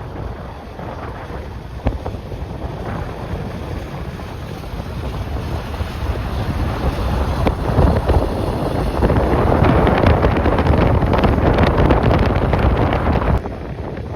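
Strong gusty wind buffeting the microphone, a rumbling rush that builds into a louder gust and drops off suddenly near the end.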